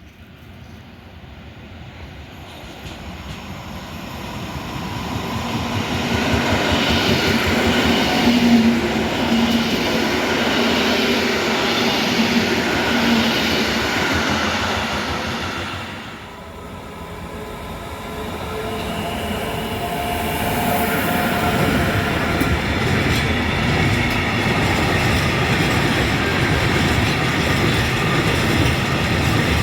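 Two coupled EN57AL electric multiple units pulling away from the platform, the sound building over several seconds as their traction motors whine over the wheel noise. After a break about sixteen seconds in, a TRAXX electric locomotive hauling a container train approaches and passes, its motor whine over the steady rumble and clatter of wagon wheels on the rails.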